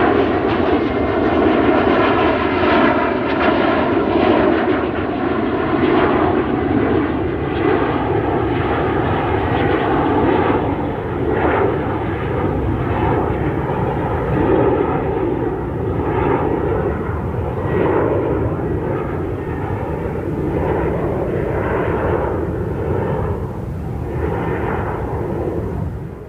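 Airliner jet engines running loud and steady: a continuous rush of noise with a few constant tones held over it.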